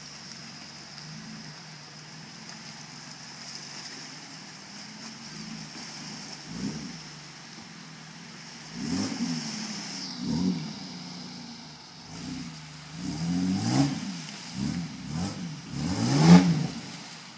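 Suzuki 4x4's engine running with a series of revs that rise and fall in pitch, coming more often in the second half and loudest near the end.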